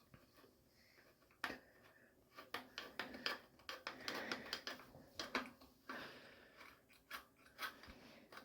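Irregular small clicks, taps and light scraping of hand tools and small metal and plastic parts being handled during a generator carburetor swap.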